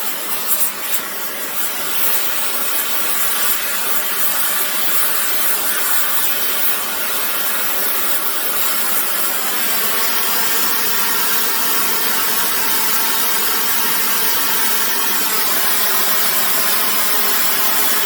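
Gas torch burning with a steady, even hiss while it heats a steel bar for bending.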